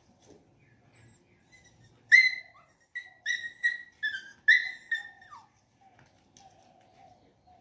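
A dog giving a quick string of about seven short, high-pitched whines or yelps over three seconds, the last one falling in pitch.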